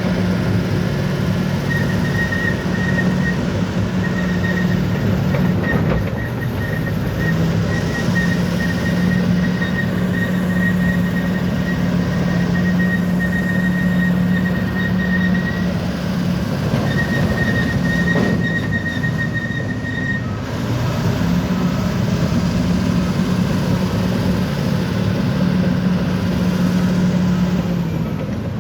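Bulldozer's diesel engine running steadily. A thin high squeal, like steel tracks grinding, starts about two seconds in and stops about two-thirds of the way through.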